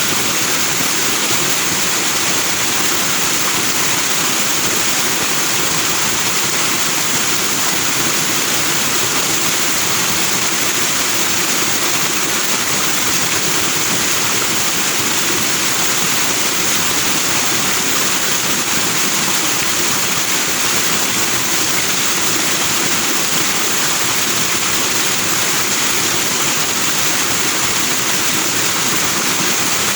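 Forest stream rushing over rocks, a steady, even hiss of foaming water.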